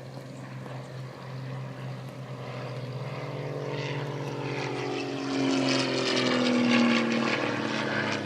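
Piston-engined propeller warplane flying past, its engine growing louder and then dropping in pitch as it passes, loudest about two-thirds of the way through. A steady low hum runs underneath.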